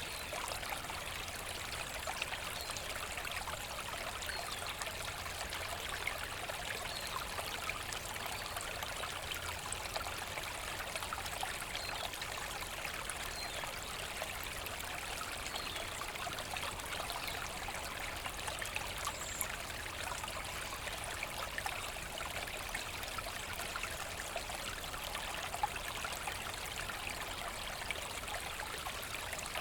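A forest brook running steadily, its water rushing and trickling without a break, with the sound sitting mostly in the middle and high range.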